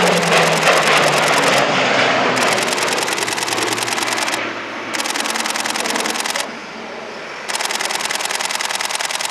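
A camera shutter firing in four rapid bursts of about one and a half to two seconds each. Under the start of it, the E-2 Hawkeye's twin turboprop engines drone and fall in pitch as the aircraft passes.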